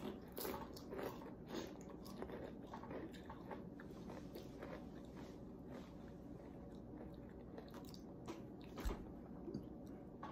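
Close chewing and crunching of crunchy spicy corn snack chips, with a run of crisp crunches in the first couple of seconds, softer chewing after, and a sharper crunch about nine seconds in.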